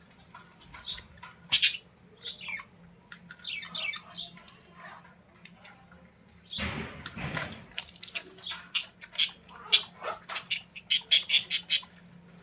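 A bird squawking and chirping in short, sharp calls, with a quick run of calls near the end. There is a brief rustle about halfway through.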